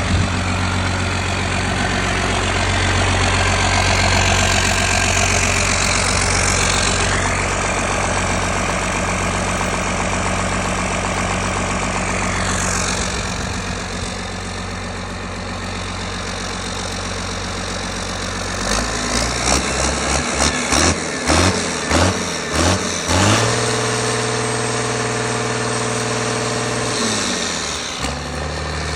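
Cummins 6BT inline-six turbodiesel running steadily just after startup. About two-thirds of the way through it is blipped several times in quick succession, then settles back to steady running.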